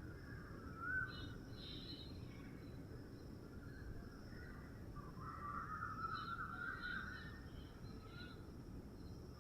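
Faint background ambience with birds chirping: a short rising call about a second in, a denser run of chirps in the middle, and more short calls near the end, over a low steady rumble.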